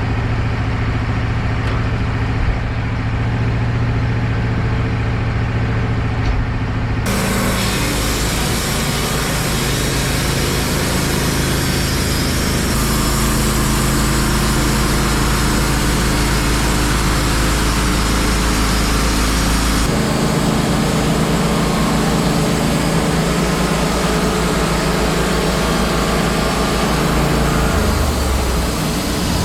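Wood-Mizer LT15 Wide portable band sawmill running steadily. About seven seconds in, a steady hiss joins the engine and carries on, typical of the band blade entering and sawing a hemlock log.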